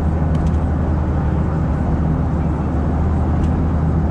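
Car driving at steady speed: a continuous low drone of engine and tyre noise heard from inside the cabin, with a few faint ticks.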